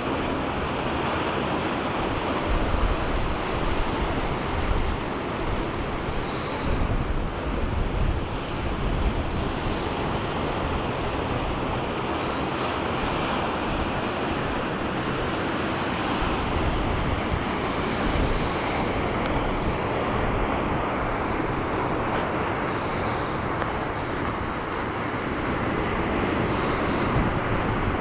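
Black Sea surf washing steadily onto the shore, with wind rumbling against the microphone in gusts.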